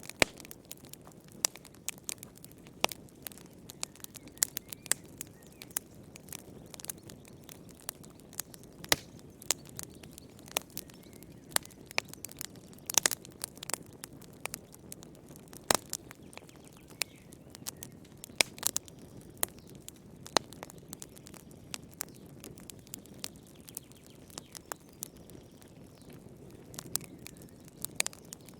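Wood fire burning in a fireplace: irregular sharp crackles and pops over a soft steady hiss, a few louder pops among them.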